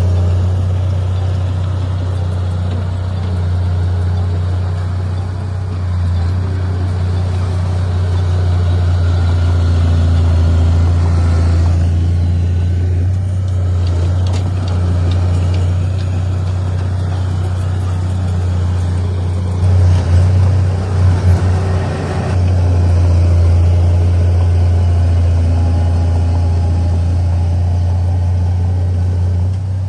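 Diesel engine of heavy earthmoving equipment running steadily, with a few short louder surges about twenty seconds in.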